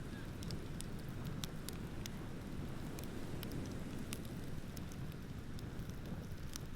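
Wood bonfire crackling, with scattered sharp pops, over a steady low rush of ocean surf.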